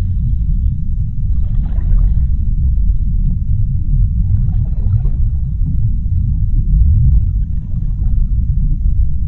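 Underwater ocean ambience: a deep, steady rumble, with a softer hiss that swells and fades about every three seconds.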